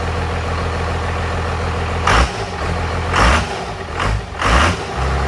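A 12-valve Cummins turbo diesel engine idling, revved briefly four times, about two seconds in, just after three seconds, and twice more near four seconds.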